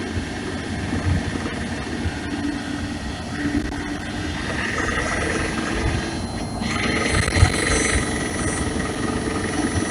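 2018 Nissan Leaf on the move, with road noise and irregular low thumps. A high whine comes in stronger from about halfway through. This is the unidentified fault noise, which the owner suspects comes from the drive shaft.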